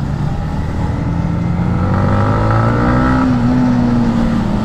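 Yamaha MT-15's single-cylinder engine pulling under acceleration, its pitch rising for about two seconds and then levelling off around three seconds in.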